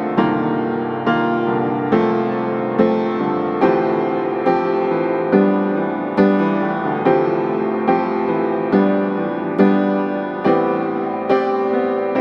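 Background piano music, a gentle tune with chords struck about every second, each decaying before the next.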